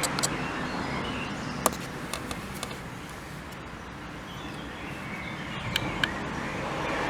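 Aprilia RS4 125's single-cylinder engine running quietly at idle, with a faint low hum under scattered sharp clicks.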